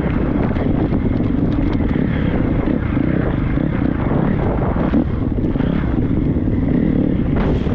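Triumph 250 motocross bike's single-cylinder four-stroke engine running steadily while riding, with scattered knocks and clatter.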